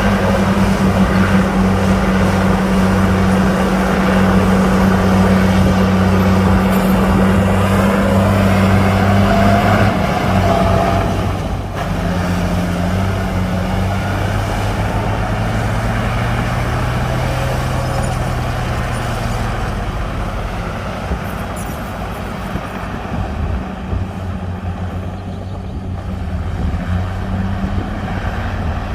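Heavy diesel earthmoving machinery running, its engine droning steadily. The engine note shifts about ten to twelve seconds in, then rises slowly for a few seconds around the middle.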